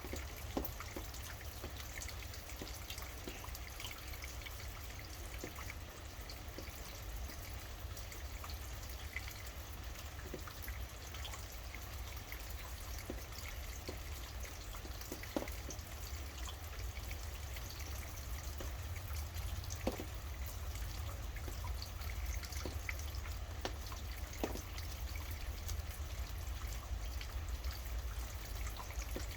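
Steady rain falling, with scattered louder drops landing close by and a steady low rumble underneath.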